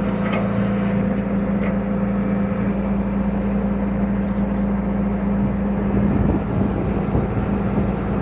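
A tractor engine running steadily at constant speed, a level drone with no revving.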